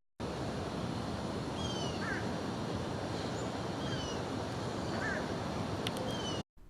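Outdoor ambience: a steady rushing background with a bird calling several times, short falling whistled notes and quick rising chirps, and a couple of faint clicks near the end.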